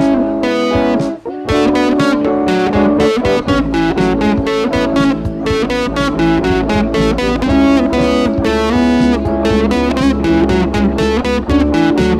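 Instrumental passage of a rock song: electric guitar playing quick picked notes, with bass guitar joining about three and a half seconds in.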